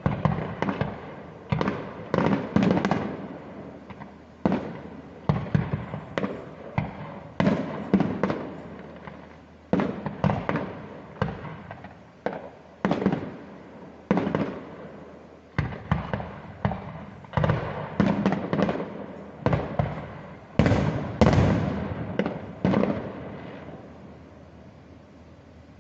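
Fireworks display: aerial shells going off in quick succession, a sharp bang every second or so, each trailing off in a rumbling echo. The bangs stop near the end and the sound dies away.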